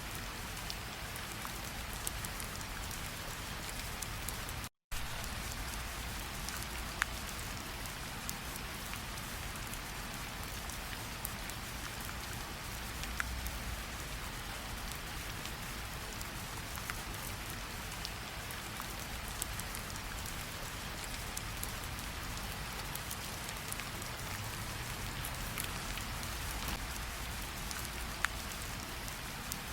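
Steady rain falling on the ground, with a few louder single drips now and then. The sound cuts out completely for an instant about five seconds in.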